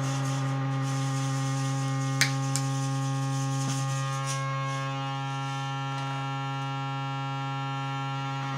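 Steady electronic hum and drone of many held tones from an amplified noise rig of contact mics and effects pedals, with a sharp click about two seconds in and a smaller one just after.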